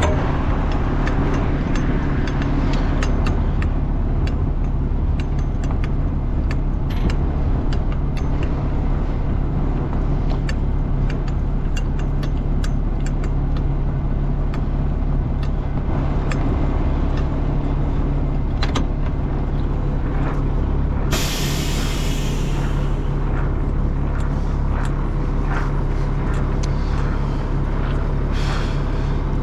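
Heavy diesel equipment running steadily, with frequent clicks and clatter. A sharp hiss of released air about 21 seconds in, like an air brake, and a shorter one near the end.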